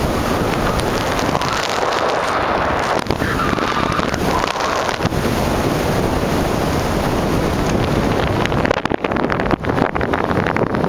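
Porsche 911SC's air-cooled flat-six engine running hard under full throttle, heard from inside the car with heavy wind noise on the microphone. The sound turns choppy near the end.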